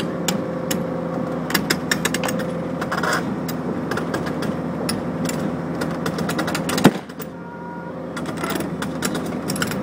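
Excavator engine working with a rattling clatter as the machine drives forward, then a single sharp bang about seven seconds in as a football bursts under the tracks; the engine sound drops lower just after.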